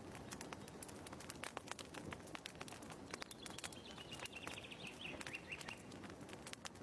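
Fireplace crackling: faint irregular pops and snaps over a soft hiss of burning wood. A bird call, a falling series of quick high notes, runs from about three seconds in to near six seconds.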